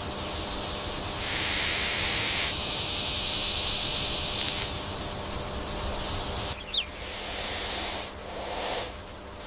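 Snake hissing in several long hisses that swell and break off, the loudest about a second in. A brief high chirp comes about two-thirds of the way through.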